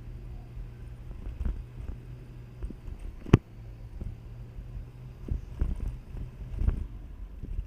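Motorcycle riding over a potholed road: irregular knocks and rattles from the bike jolting, with one sharp knock about a third of the way in, over a low engine hum.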